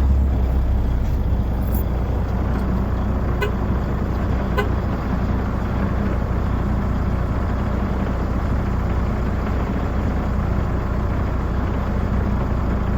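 A vehicle engine idling steadily, with a few faint clicks in the first few seconds.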